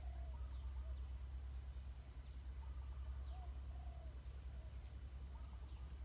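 Faint bird calls: short curved notes in small groups, with a few quick high chirps, over a steady high insect buzz and a low rumble.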